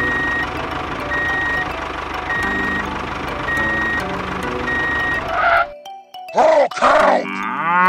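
Truck sound effect: an engine running with a reversing alarm beeping about once a second, five beeps, cutting off suddenly near the end. Short voice-like gliding sounds follow.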